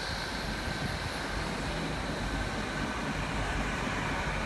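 GWR Class 800 bi-mode train pulling into the platform, running past with a steady rumble and a faint whine.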